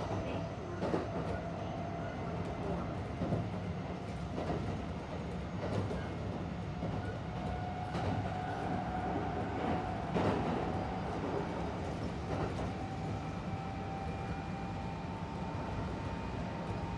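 Onboard running sound of a Kintetsu 1620-series electric train: a steady low rumble under a thin motor whine that climbs slowly in pitch as the train gathers speed. Rail-joint clacks come about once a second.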